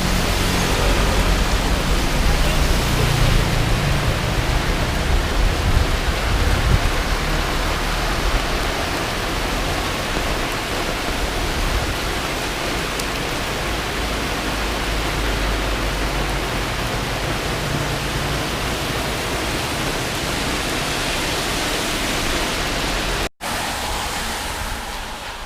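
Storm wind and rain: a steady rushing noise, with low gusts buffeting the microphone through the first several seconds.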